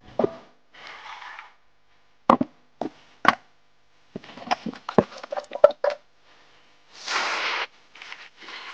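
A run of sharp knocks and clatter from cooking preparation, then, about seven seconds in, a loud burst of sizzling as meat goes into hot oil in a brass pot, the oil hissing and bubbling on.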